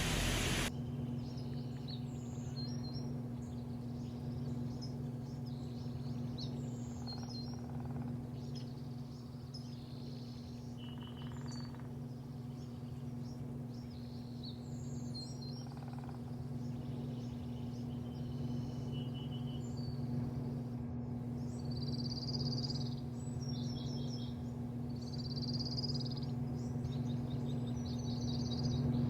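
A loud rushing noise cuts off just under a second in, leaving a steady low machine hum. Small birds chirp and twitter repeatedly over the hum, more busily near the end.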